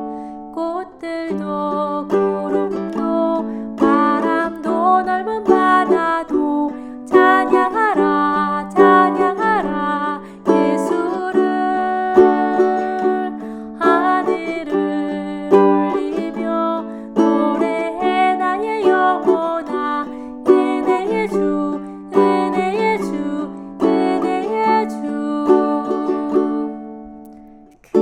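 Ukulele playing chord accompaniment, four strings plucked together on the first beat and then picked as an arpeggio or strummed in a sixteenth-note pattern. The chords ring out and die away near the end.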